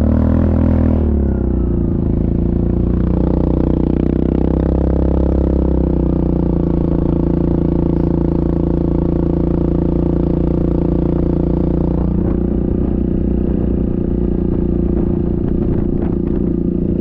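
Yamaha Grizzly ATV engine running under way, its pitch shifting for the first few seconds, then holding steady at a constant speed.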